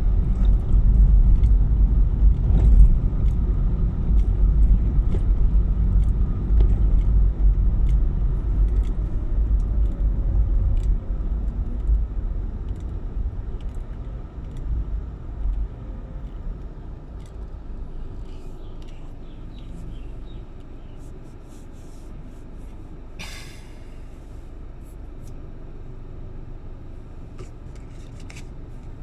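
Low rumble of a road vehicle, loud at first and fading away over the first twenty seconds, with scattered light clicks and a short hiss a little after the middle.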